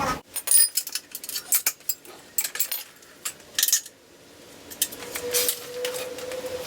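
Metal hand tools and engine parts clinking and clattering in quick, irregular knocks, busiest in the first four seconds. A steady tone sets in about five seconds in.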